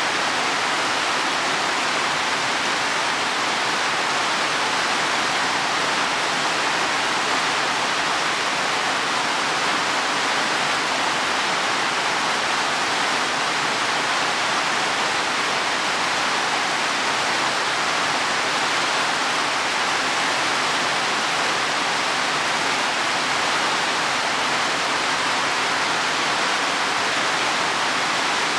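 Heavy rain falling on leaves and wet soil, a steady even hiss with no separate drops or events standing out.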